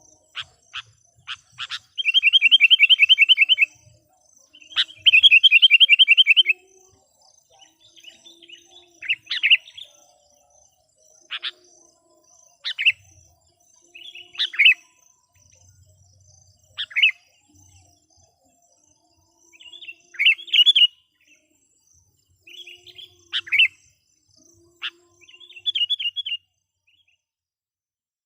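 Sooty-headed bulbul (kutilang) decoy bird calling to lure wild bulbuls. It gives a few sharp chip notes, then two long rapid trills in the first seven seconds. After that come short sharp whistled calls every second or two, and a shorter trill near the end.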